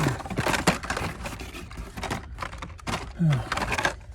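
Blister-packed die-cast toy cars clacking and rustling as they are handled and flipped through one after another, a quick run of sharp plastic clicks.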